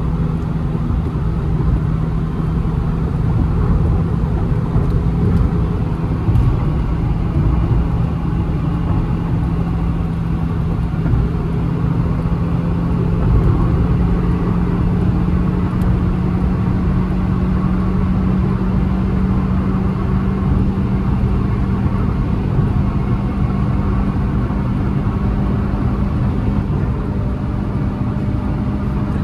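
Honda City's 1.5-litre four-cylinder petrol engine droning under hard acceleration, heard from inside the cabin over road and wind noise. Its pitch climbs slowly and steadily through the first two-thirds, then holds.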